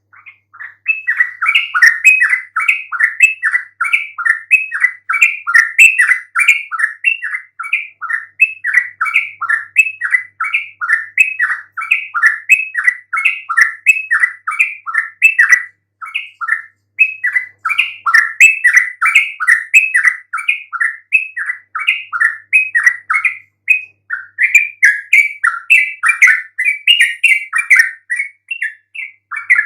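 Yellow-vented bulbul (trucukan) singing a fast, continuous run of bubbling, chattering notes, several a second, with brief pauses twice. It is the lively 'gacor' song that keepers play as a lure to get other trucukan to answer.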